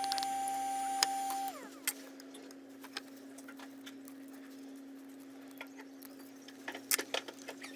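A steady high electronic whine that cuts off about a second and a half in, sliding down in pitch as it stops, over a steady low hum. Scattered light clicks and taps of tools on the workbench follow, with a quick cluster near the end.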